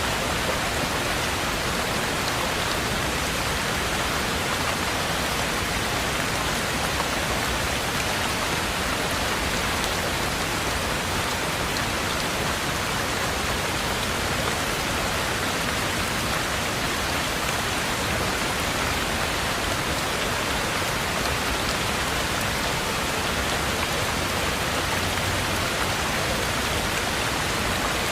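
Heavy rain falling steadily: an even, unbroken hiss of rain with no lulls or separate events.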